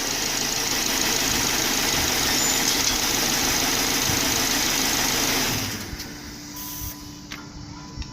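2010 Subaru Legacy's 2.5-litre flat-four engine idling steadily, then switched off nearly six seconds in, leaving a faint steady hum.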